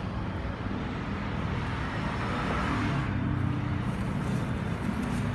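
Motor vehicle engine running steadily with a low, wavering hum, under a haze of road traffic noise.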